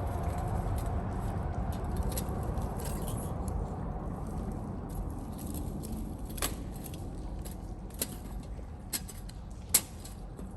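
Wood fire crackling: irregular sharp pops and snaps over a low steady rumble, with the loudest pop near the end.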